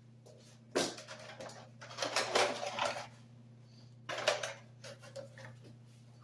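Hard objects clattering and rattling in three bursts, about a second in, around two to three seconds in, and around four seconds in, over a steady low hum.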